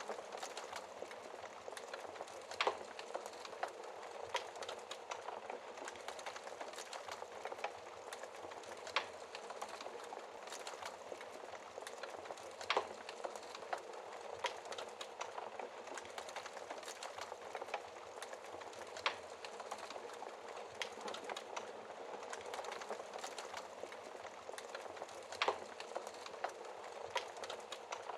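Wood fire burning in a fireplace: a steady hiss with continual small crackles and a handful of sharper pops scattered through.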